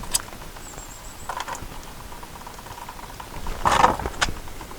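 Scattered light clicks and knocks, with one short louder scrape near the end, from brake pads being worked back against the caliper pistons by hand.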